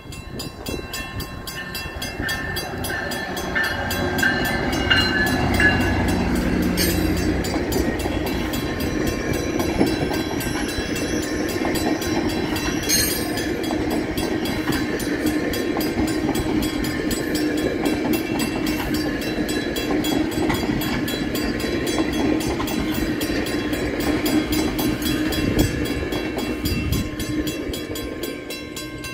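GO Transit commuter train of bilevel coaches passing at speed. The wheel and rail noise builds over the first few seconds as it approaches, stays loud and steady while the coaches go by, and fades near the end as the train moves off.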